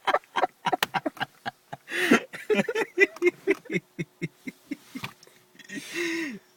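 A man laughing hard in quick, pitched bursts, with breathy gasps for air about two seconds in and again near the end.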